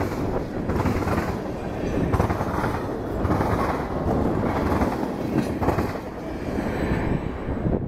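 Freight cars rolling past close by: steady rumble and clatter of steel wheels on the rails, with repeated clicks as the wheels cross rail joints.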